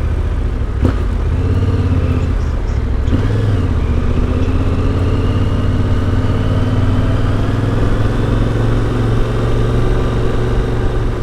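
Yamaha Ténéré 700's CP2 parallel-twin engine, through an Akrapovic exhaust, running while under way. Its note breaks briefly about three seconds in, then rises slowly as the bike accelerates, with a sharp click about a second in.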